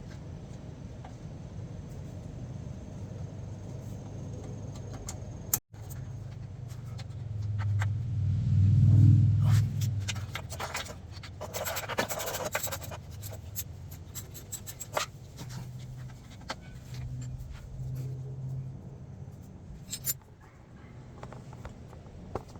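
Metal-on-metal scraping, clicks and clinks as an exhaust up-pipe and its gasket are worked into place against the turbo, over a steady low hum. A louder low rumble swells up about eight to ten seconds in.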